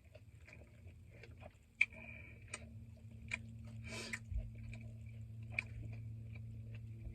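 Close-up chewing of chicken wings with the mouth open: irregular wet smacks and small clicks, over a steady low hum.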